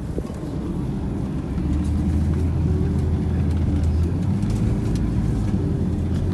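Suzuki Escudo's engine running under load as the SUV drives up a snowy forest track, its note growing louder and stronger about a second and a half in, then holding steady.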